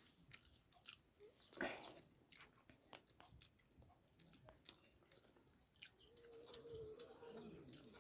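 Faint chewing and small mouth clicks of someone eating boiled chayote squash, with one louder knock about one and a half seconds in. Small birds chirp in the background, and a low drawn-out call sounds about six seconds in.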